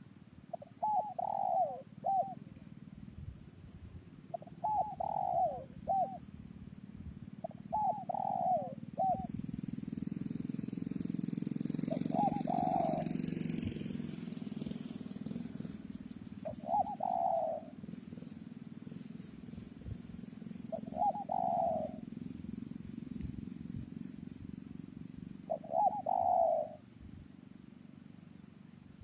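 Spotted dove cooing: a short repeated coo phrase about every four seconds, seven times. The first three phrases end with a brief extra note. A low rumble swells and fades in the middle.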